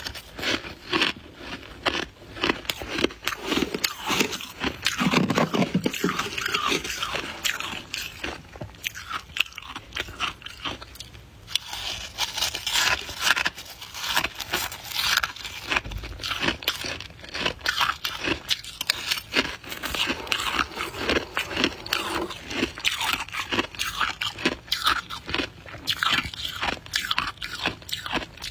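Soft white ice (freezer frost) being bitten and chewed: a dense run of rapid, crisp crunches with only short pauses.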